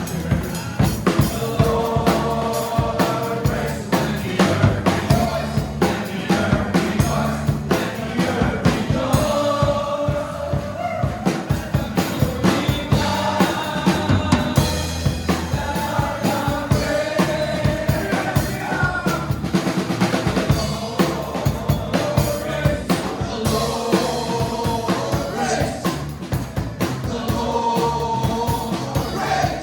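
Worship music: a drum kit keeping a busy, steady beat under singing voices.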